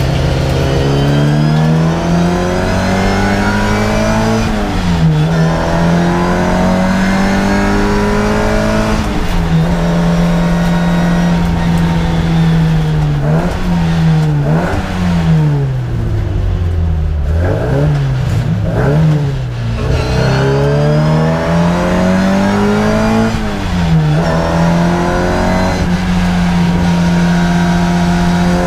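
Track car's engine heard from inside the cabin, pulling hard on a lap, its revs climbing and dropping back again and again, with a run of quick rev rises and drops in the middle.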